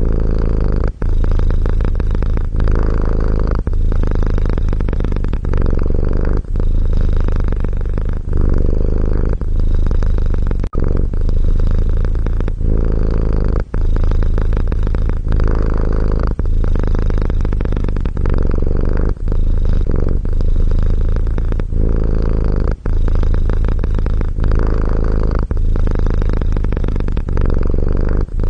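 Domestic cat purring close to the microphone: a steady low rumble broken by brief dips about every second or so as the purr switches with each breath.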